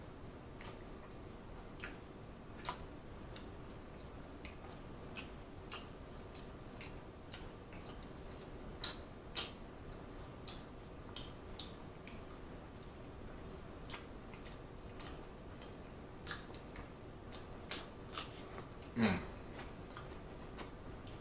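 Close-miked chewing of soft food: scattered wet mouth clicks and lip smacks at irregular intervals, with a short, louder, falling mouth sound near the end, over a faint steady hum.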